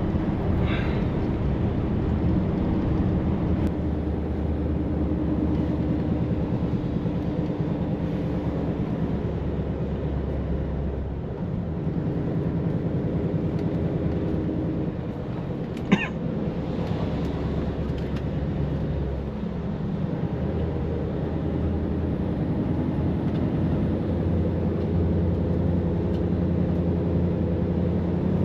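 Heavy truck's diesel engine and tyre noise heard from inside the cab while driving on the highway, a steady drone whose engine note shifts a couple of times. A single sharp click about halfway through.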